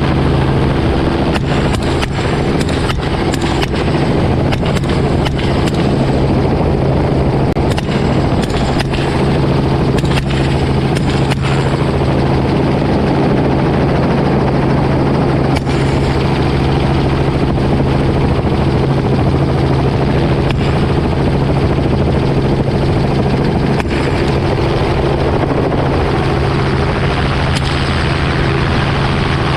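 Steady helicopter rotor and engine noise, with many rifle shots fired in quick, irregular succession throughout.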